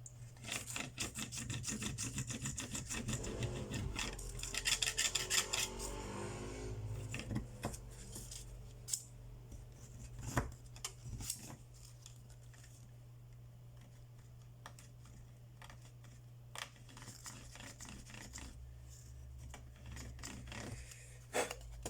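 A small tool scraping and rubbing quickly over a phone's frame, clearing glass fragments and adhesive residue before a new LCD goes in. Rapid strokes for the first few seconds give way to occasional scrapes and taps, over a steady low hum.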